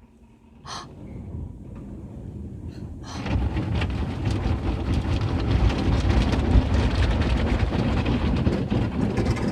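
Automatic car wash heard from inside the car: water spray and wash equipment beating on the car body, building gradually and then becoming a loud steady rush about three seconds in.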